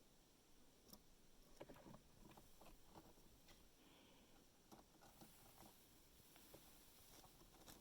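Faint, irregular crackles and clicks of a red squirrel gnawing and cracking peanut shells.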